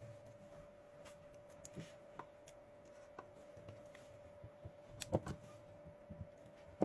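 Faint scattered taps, clicks and rubbing from small hand work on a cordless vacuum's rebuilt battery pack and its wire leads, a few sharper clicks about five seconds in, over a faint steady hum.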